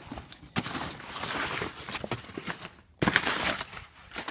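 Parcel packaging being unwrapped by hand: crinkling, rustling and tearing in several bursts, with a louder burst of rustling about three seconds in.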